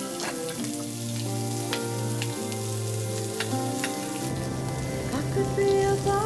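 Steak frying and sizzling in a hot pan, with scattered sharp pops, under a background pop song.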